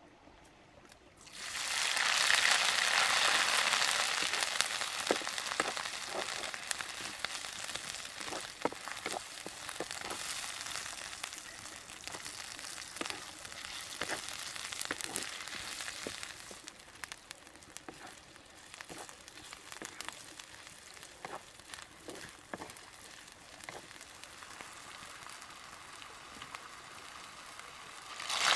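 Spice paste and red chilies frying in hot oil in an iron wok. A loud sizzle starts about a second and a half in, then settles into steady frying with scattered crackles and pops. The sizzle flares up loudly again near the end.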